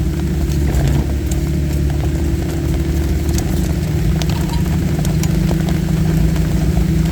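Off-road vehicle's engine running steadily at low speed on a trail, with scattered light ticks over the steady hum.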